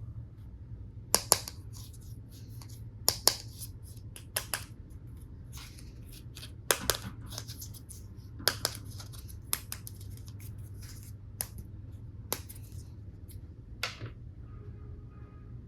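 Plastic toy tool pieces being handled: sharp plastic clicks and snaps, several in quick pairs, with softer rustling between them over a steady low hum.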